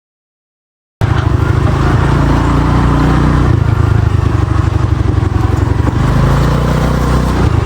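Motor scooter engine running while being ridden, cutting in abruptly after about a second of silence.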